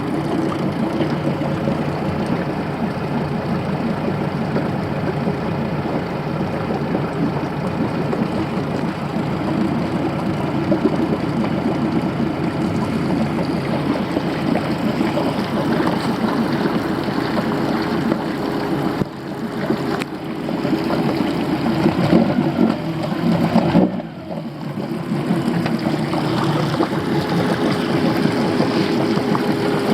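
Suzuki DF90A four-stroke outboard motor idling steadily just after a cold start, running smoothly on six-month-old ethanol fuel after a winter of storage. The sound briefly drops twice near the end.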